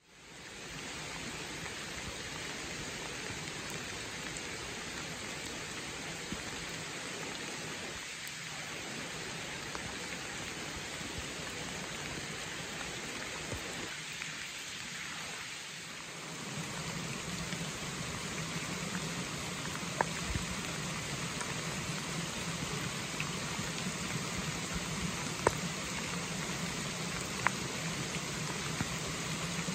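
Steady rain falling, with a few sharp single drop ticks standing out in the second half.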